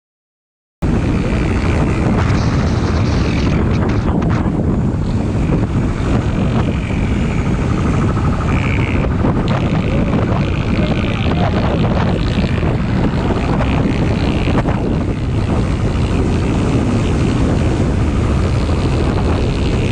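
Motorcycle riding at speed: engine running under a steady rush of wind on the microphone. It cuts in abruptly about a second in and holds level.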